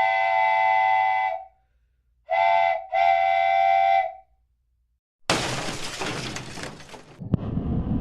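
A steam train whistle sounds three times, long, short, long, with a chord of several pitches. About five seconds in, a loud crash like something breaking and shattering, fading over two seconds, followed by a low rumbling noise.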